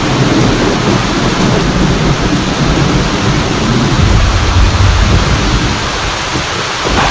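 Steady rain pouring with rolling thunder; a deep rumble swells about four seconds in, eases, and a fresh loud burst comes just before the end.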